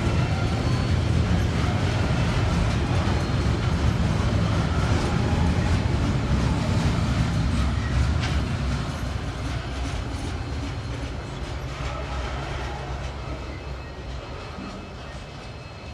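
Train wagons rolling past, their wheels clicking over the rails with a heavy low rumble. The sound fades steadily from about halfway through as the train draws away.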